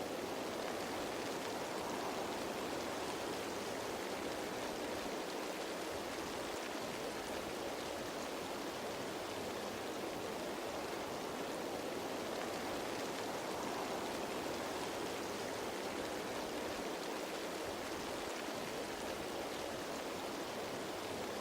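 Steady rain falling on leaves: an even, unbroken hiss with no separate drops standing out.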